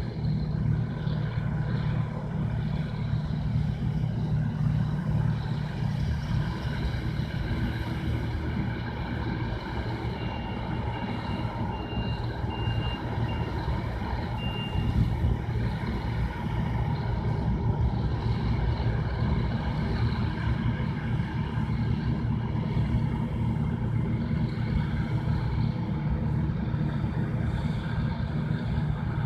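Bizon Z056 combine harvester's diesel engine running steadily under working load, with a short run of high-pitched beeps about halfway through.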